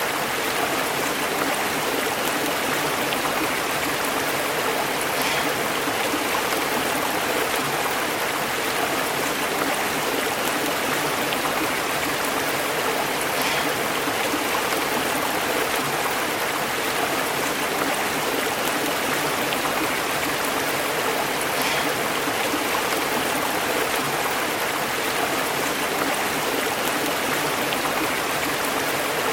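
Stream water flowing and bubbling over rocks, a steady, even rush of burbling water.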